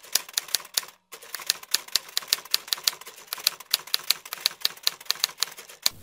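A quick run of sharp typing clicks, about five a second, as text is keyed in on a phone's on-screen keyboard, with a short break about a second in.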